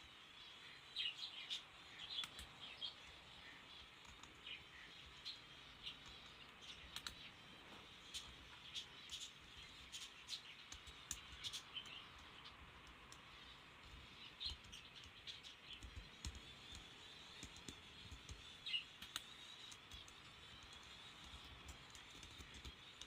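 Faint, scattered short bird chirps over a quiet background hiss, with a few light clicks.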